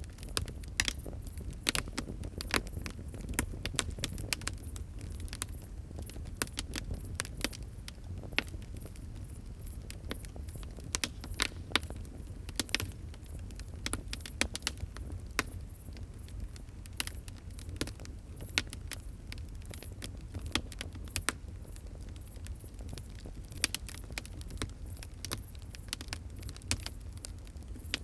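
Wood fire crackling, with many sharp irregular pops and snaps over a steady low rumble of the flames.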